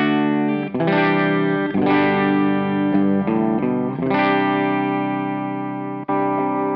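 Electric guitar played through a clean amp tone, with no overdrive engaged: strummed chords left to ring, a new chord struck every second or two.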